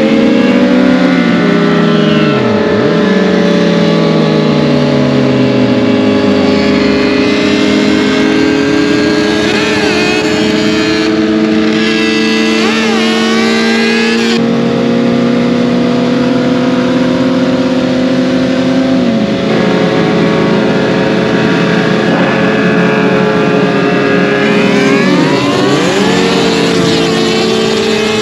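Several vehicle engines running, with revs rising and falling and an engine note dropping away as one pulls off or passes.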